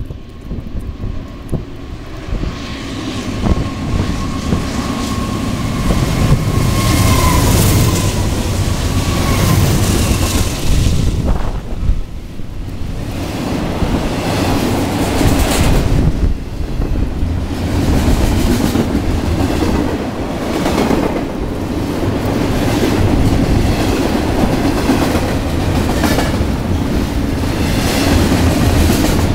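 BNSF double-stack intermodal freight train passing at speed close by. A thin steady whine rises out of growing rumble as the diesel locomotives approach and rush past about seven to ten seconds in. Then the stack cars go by with a steady heavy rumble, rhythmic wheel clatter over the rail joints and rushes of wind.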